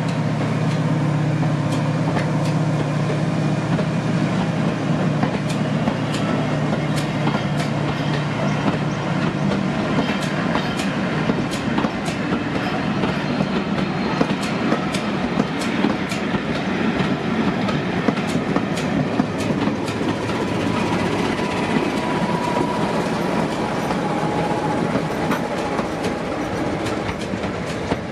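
Passenger coaches rolling past at low speed, their wheels clicking irregularly over rail joints. In the first few seconds the steady drone of the departing Class 55 Deltic locomotive's twin Napier Deltic engines fades away ahead.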